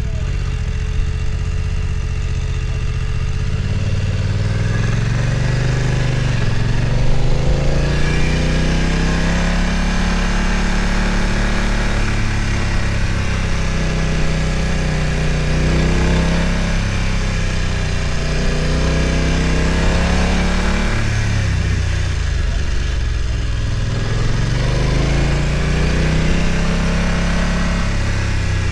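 BMW F900 XR's parallel-twin engine running under way, its revs rising and falling several times as the throttle is opened and closed.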